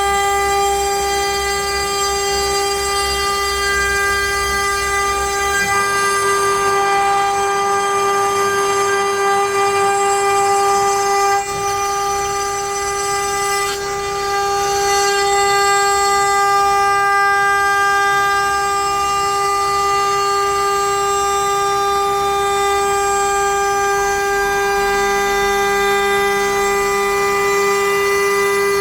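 CNC router spindle running with a steady high whine while the bit mills letters into pine. The level dips briefly twice near the middle.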